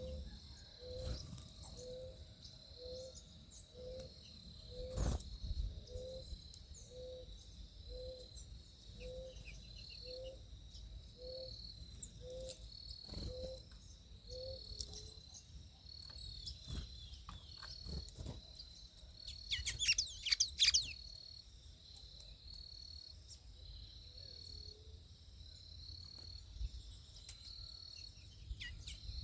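Backyard bird and insect sounds: an insect or cricket chirps in steady high-pitched pulses throughout, while a bird repeats a soft low note about once a second until about halfway through. About two-thirds of the way in, a short loud burst of quick, high bird song stands out, and there is a single thump a few seconds in.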